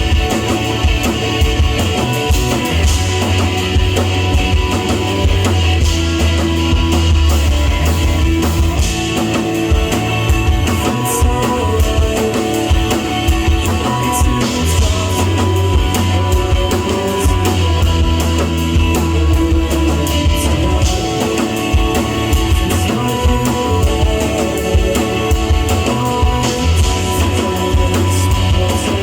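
Live rock band playing a song: electric guitar, bass and drum kit.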